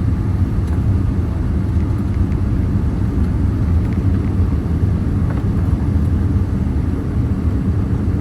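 Steady low rumble of a Boeing 787-8 heard from inside the passenger cabin during landing.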